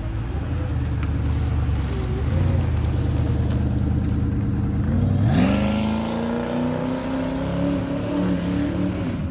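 Loud performance-car exhausts rumbling at low speed, then about five seconds in one car revs sharply and accelerates, its exhaust note climbing steadily as it pulls away.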